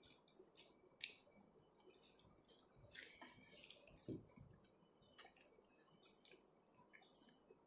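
Near silence with faint scattered clicks and small soft mouth sounds of quiet chewing.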